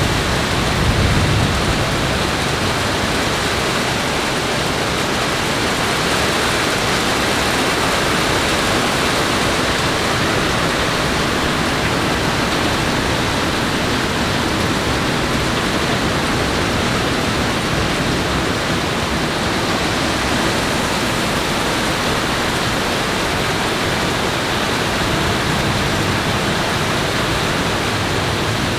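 Heavy rain in a thunderstorm, a loud, steady, even rush. A brief low rumble comes near the start.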